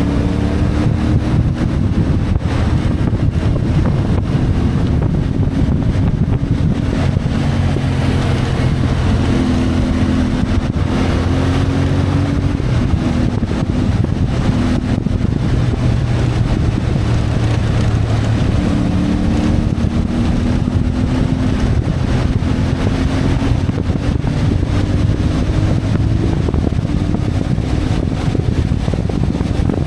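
CFMoto 450MT motorcycle's parallel-twin engine running under way, its pitch climbing and dropping several times with throttle and gear changes. Wind rushes over the microphone throughout.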